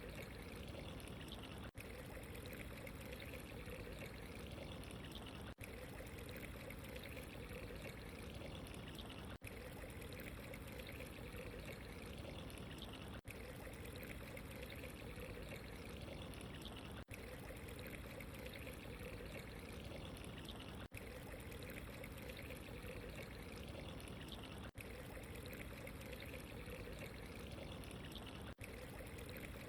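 Steady trickling, running water ambience that briefly cuts out about every four seconds.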